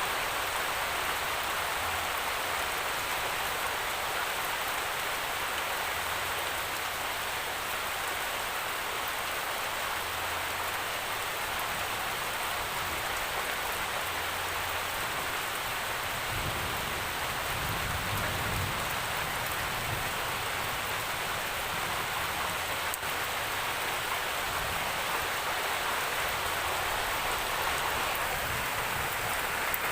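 Steady rainfall, an even hiss of rain pattering on surfaces, with a faint low rumble about halfway through.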